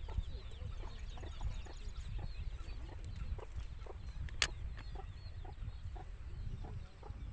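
Birds calling outdoors: a steady run of short repeated calls, a couple a second, with thin higher chirps among them, over a low rumble. A single sharp click about four and a half seconds in.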